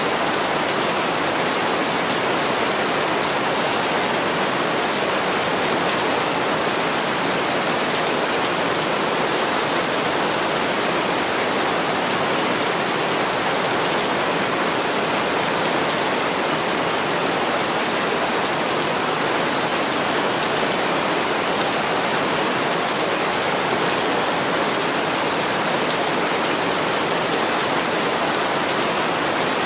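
Heavy rain falling on a window pane: a dense, even hiss that holds steady without breaks.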